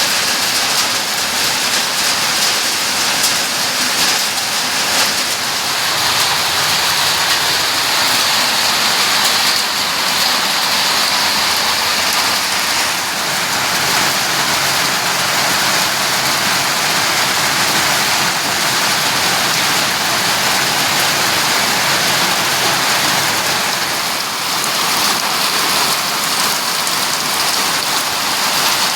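Steady heavy rain falling on surfaces, a continuous even hiss without pause.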